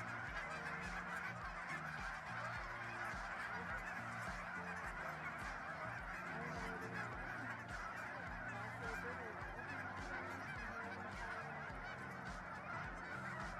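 A large flock of cackling and Canada geese honking and calling without a break, many voices overlapping into one din.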